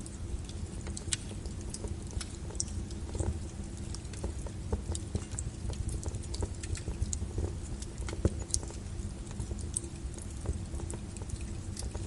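Wood logs burning in a fireplace: irregular sharp crackles and pops over a low steady rumble of the flames.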